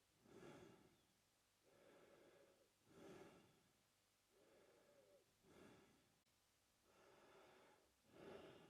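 A man breathing slowly and evenly through his mouth, faint. It repeats steadily, one breath in and out about every two and a half seconds, about four breaths in all.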